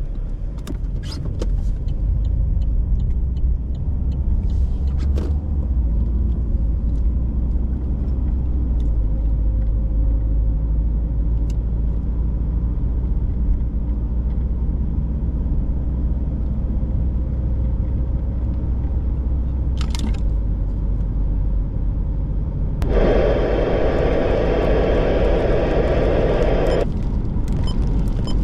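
Steady low rumble of road and engine noise inside a moving car, with a few sharp clicks early on. Near the end, a loud steady pitched tone sounds for about four seconds, then cuts off.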